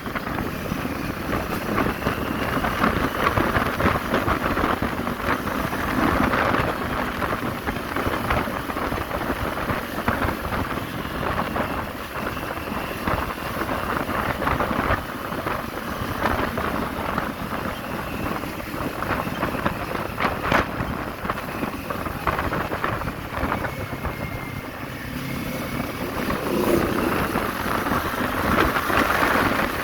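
Kawasaki Z400 parallel-twin engine running under way, buried in heavy wind noise on the microphone, with faint engine pitch drifting as the revs change.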